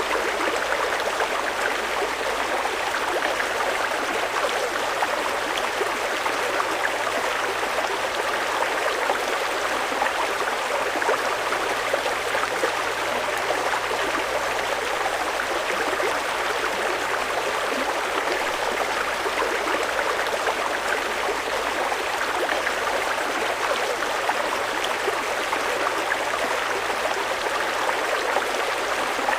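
A fast-flowing mountain river rushing over rocks: a steady, dense rush of water with fine splashing and gurgling.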